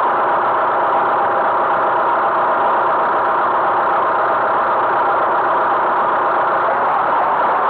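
Tractor engine running steadily, its level and pitch unchanging.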